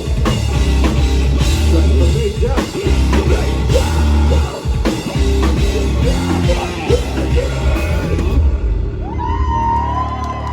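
Rock band playing live, loud, with drums and distorted electric guitars, as a song comes to its close; the band stops about eight seconds in, leaving crowd noise with yells.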